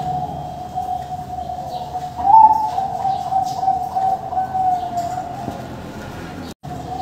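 Zebra doves (Bangkok perkutut) cooing, their calls overlapping into a near-continuous wavering coo. A louder, slightly higher coo comes a little over two seconds in. Faint, short high chirps sit above it.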